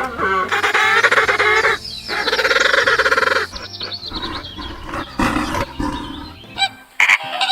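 A run of loud animal calls: long pitched cries for the first three seconds or so, then shorter calls.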